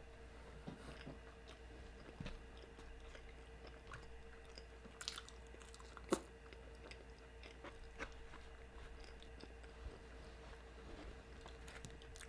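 Faint close-miked chewing of cheese-covered carne asada fries, with scattered wet mouth clicks, the sharpest about halfway through, over a steady low hum.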